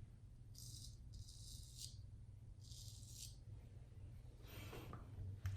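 Straight razor scraping through lathered stubble in four short, faint strokes, the crisp crackle of whiskers being cut on the first pass. A sharp click near the end.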